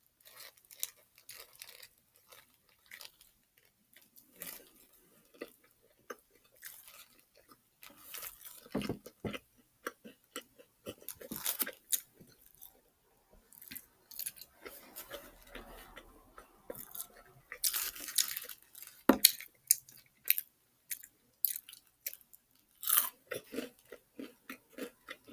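A person biting into and chewing a crispy fried chicken sandwich with a pickle, in close, irregular crunches.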